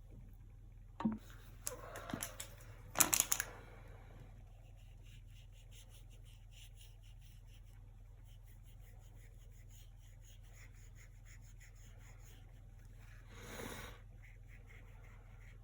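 Painting tools and materials being handled: a few sharp knocks and scrapes in the first few seconds, then faint light ticking, and one short soft rushing sound near the end, all over a steady low hum.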